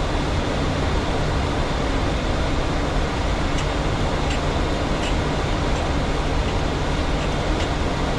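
Steady cockpit noise of a Boeing 737 flight deck, the even rush of airflow and engine noise, with a few faint high ticks about halfway through.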